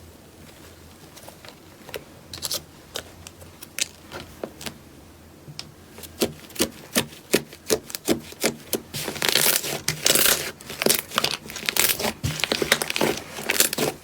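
Crunchy slime being pressed and worked, making crackling pops. The pops are scattered at first and turn into a dense crackle about two-thirds of the way through.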